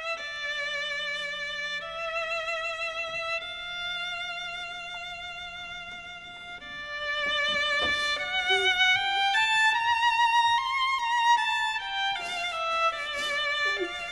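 Slow, sad melody on a bowed string instrument: long held notes with vibrato, over a faint low held tone.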